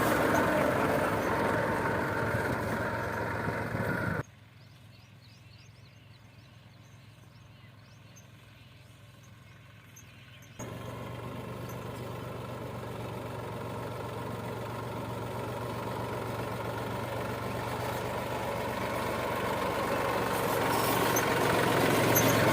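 Tractor engine running steadily with a low hum. About four seconds in it drops suddenly to a faint background level; it comes back about six seconds later and grows gradually louder to the end.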